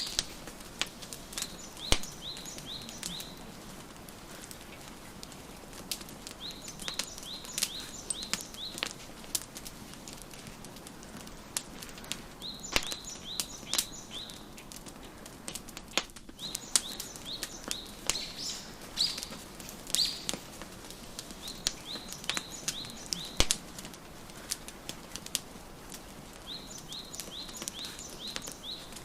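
Wood fire crackling, with sharp pops scattered throughout. A songbird sings short runs of quick chirps, one run every few seconds.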